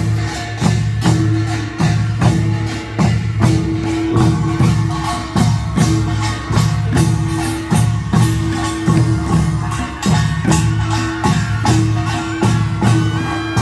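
Korean nongak (pungmul) farmers' percussion band playing a fast, driving rhythm: small gongs (kkwaenggwari) clanging and drums beating in rapid, even strokes over a sustained gong tone. Near the end a stepping pitched melody line comes in above the percussion.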